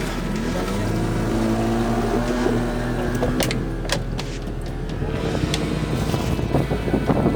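Motor engine running steadily, its pitch rising during the first couple of seconds and then holding.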